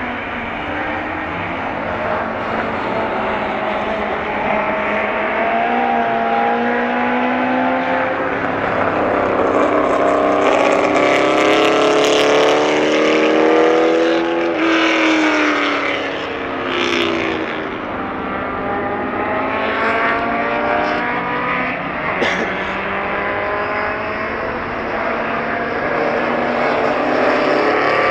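Classic racing car engines at speed on a race circuit, revving up and dropping back repeatedly as they accelerate and brake through the gears, loudest about halfway through.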